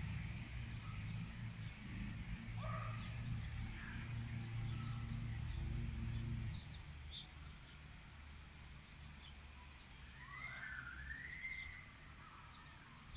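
Birds calling in park trees over a low steady hum: a few short chirps, then two louder calls that rise and fall about ten seconds in. The hum drops away about six seconds in.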